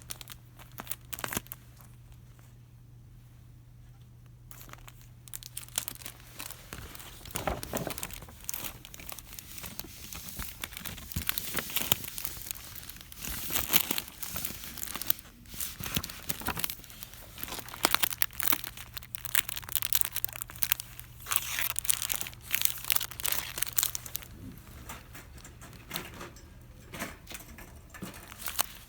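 Crinkly packaging being handled and crumpled, a dense, irregular crackling that starts a few seconds in and goes on until just before the end.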